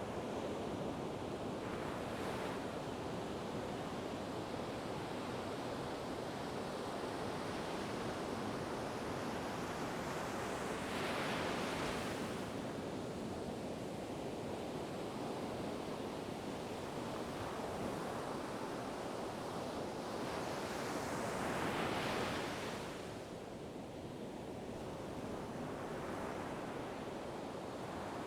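Ocean waves washing ashore, a steady surf hiss with waves breaking about every ten seconds, about 2 s, 11 s and 22 s in; the one near 22 s is the loudest.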